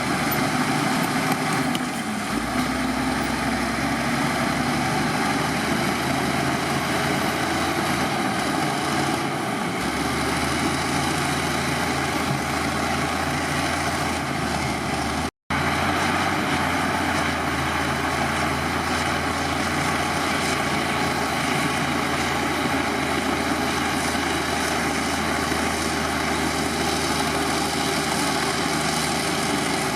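Heavy diesel earthmoving machinery running steadily, with the engine note shifting a little in its low end as the load changes. The sound cuts out completely for an instant about halfway through.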